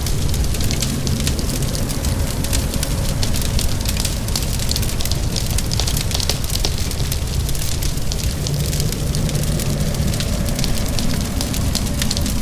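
Wood fire crackling with many small, quick pops over a steady hiss of rain and a continuous low rumble.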